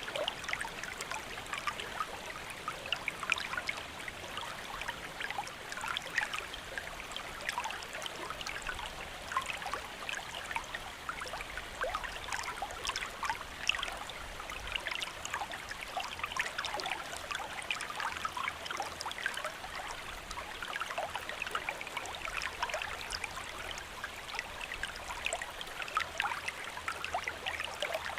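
Steady rain, a dense even patter of many small drop hits.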